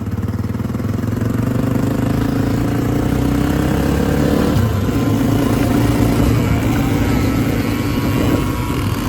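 Two kids' 50 cc dirt bikes, a two-stroke Yamaha PW50 and a four-stroke Honda CRF50F, running at full throttle in a short drag race. The engine note changes about halfway through.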